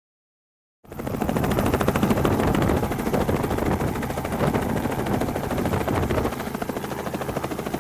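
Helicopter running with a fast, steady rotor chop, starting about a second in after silence.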